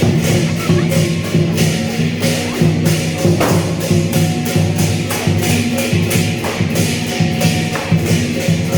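Lion dance percussion: clashing cymbals keeping a fast, steady beat over drum and gong.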